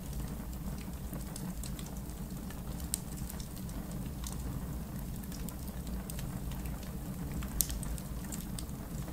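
Backyard fire pit fire crackling: scattered sharp pops and snaps, two louder ones about 3 and 7.5 seconds in, over a steady low rumble.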